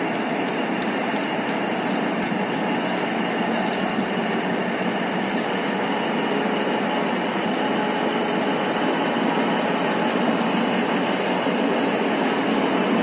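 Diesel-electric multiple unit train running along the platform, a steady noise of the moving coaches on the rails that grows a little louder near the end. Faint light ticks come about twice a second over it.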